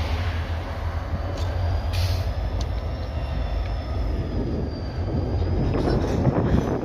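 Freight train moving slowly, with a steady low rumble. A thin, faint, high squeal from the wheels wavers from about two seconds in, and there are a few short knocks in the first half.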